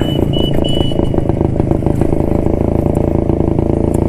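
1972 Jawa motorcycle's two-stroke single-cylinder engine running steadily while riding. A high beeping tone sounds three times in short pieces during the first second.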